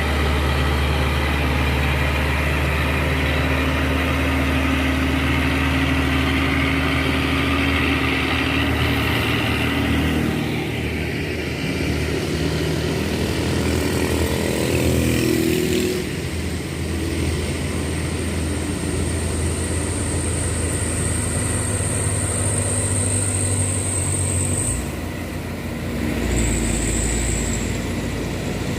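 Truck engine running steadily, its pitch shifting between about ten and sixteen seconds in. A thin high whine joins it for several seconds in the second half.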